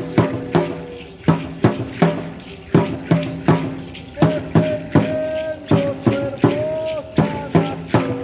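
Aztec dance music: a drum beating a steady rhythm of strong strokes, about two a second with some doubled, under a held, wavering high tone.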